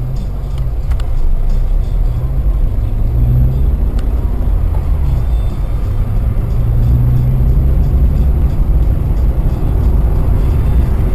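Steady low rumble of a car driving, engine and road noise, with a slow rise and fall in pitch and a few faint ticks.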